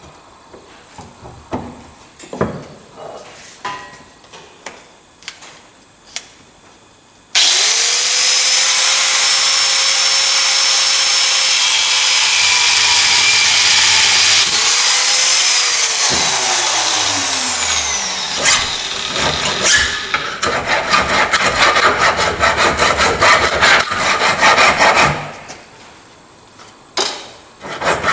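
Electric cut-off tool spinning up about 7 seconds in and cutting through a steel bolt with a high whine, then winding down with falling pitch. Rapid rasping strokes of metal being filed follow.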